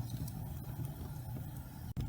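Fireplace flames burning with a steady low rumble and a few faint crackles. The sound cuts out for an instant near the end.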